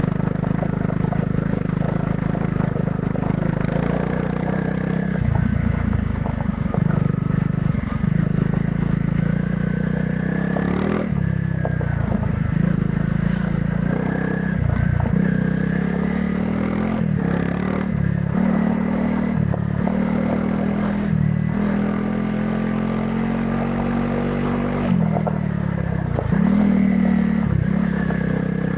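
Honda CRF300 Rally's single-cylinder engine running through its stock exhaust while riding off-road. The engine note dips and comes back many times as the throttle is rolled off and on, and holds a smoother, slowly rising pull near the end, with a few short knocks from the bike over rough ground.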